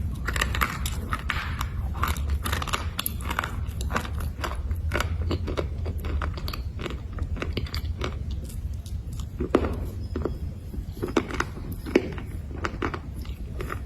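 A person biting and chewing hard black slate bars: a rapid, irregular run of sharp crunches and clicks, over a steady low hum.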